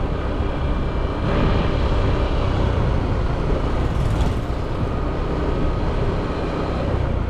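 Motorbike engine running steadily while riding, mixed with road and wind noise.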